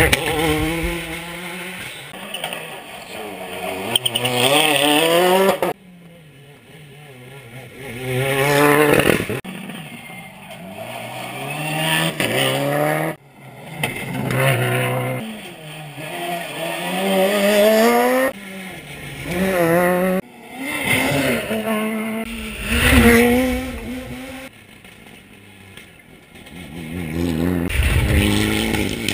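Rally car engine at full throttle, its revs climbing hard again and again, with a sudden drop each time the driver lifts off or changes gear.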